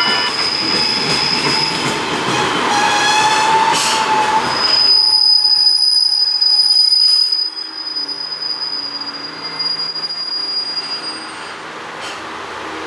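Ibara Railway diesel railcar running on the rails, with a steady high wheel squeal over loud rumbling noise; the noise drops off sharply about seven and a half seconds in.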